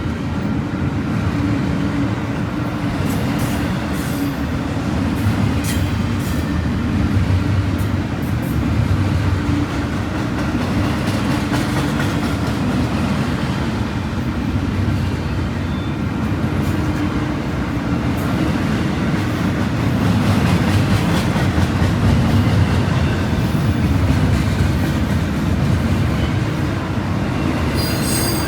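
Intermodal freight train's cars rolling past: a steady low rumble of steel wheels on rail, with scattered sharp clicks and a brief high squeal near the end.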